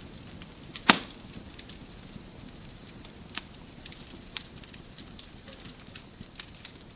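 Wood fire crackling in a fireplace: scattered sharp pops and snaps over a low steady hiss, with one loud pop about a second in.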